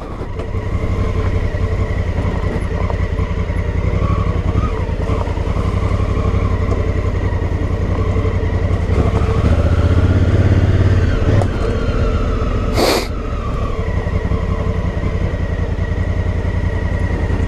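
Honda Africa Twin's 998 cc parallel-twin engine running steadily at low trail speed. A brief hissing swish cuts in about thirteen seconds in.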